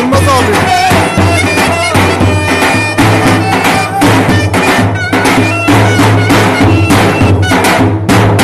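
Loud traditional folk dance music: a reedy wind instrument with a held drone-like sound plays a melody over steady drum beats.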